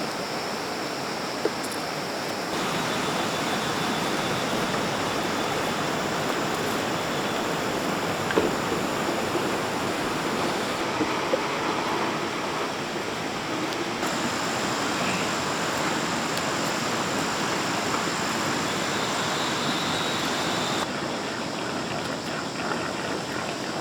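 Steady rushing noise, like flowing water, that changes abruptly in tone a few times, with a few faint knocks.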